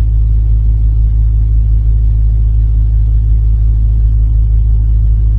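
Steady low rumble of a running vehicle engine, even in loudness with no revving or change.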